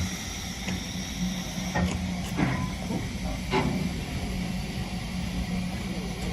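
Steam locomotive hissing steadily over a low steady hum, with a few short knocks.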